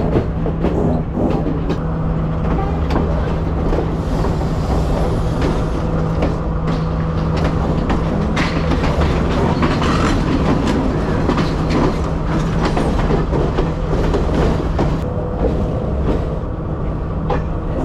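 Diesel-hauled passenger train running along the track, with a steady low drone and its wheels clacking irregularly over the rail joints.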